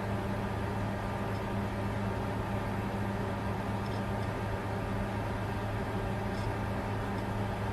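Bitcoin mining machine running: a steady mechanical whir with a constant low hum, unchanging throughout.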